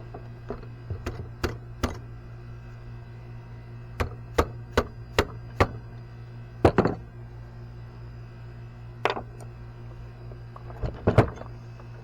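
Repeated hammer blows in short groups: five quick strikes, then five evenly spaced ones, then a few more singly and in close clusters, over a steady low hum.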